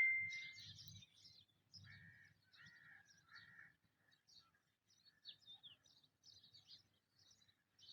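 Faint bird chirps and calls over near silence, including three short calls in a row early on; a ringing metallic ding fades out at the very start.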